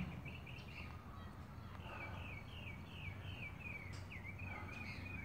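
A bird singing a rapid series of short, falling notes, about three a second, starting about two seconds in, faint over a steady low outdoor rumble.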